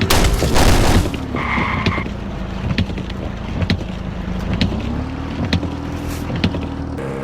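Car crash sound: a loud, noisy impact in the first second, then a vehicle engine running steadily with scattered knocks and a short beep about a second and a half in.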